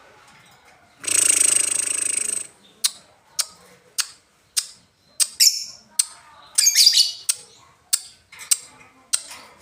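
Lovebird calling: a harsh buzzing call of about a second and a half near the start, then a run of short, sharp tick-like chirps about twice a second, some trailing into squeaky notes. This is the ticking call lovebird keepers call 'ngetik'.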